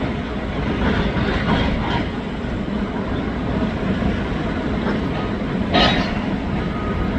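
Demolition machinery running steadily while sorting scrap metal, with rattling and clanking of metal and one louder clank near the end.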